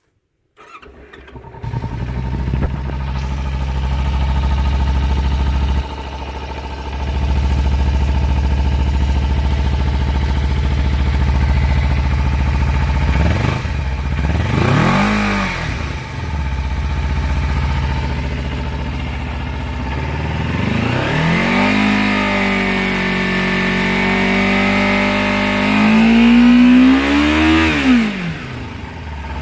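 2014 Kawasaki Ninja 300's parallel-twin engine on its stock exhaust, starting about half a second in and settling to an idle, with a quick blip of the throttle midway and a longer rev held high near the end before dropping back to idle. The stock exhaust isn't too loud: most of the sound comes from the engine rather than the exhaust.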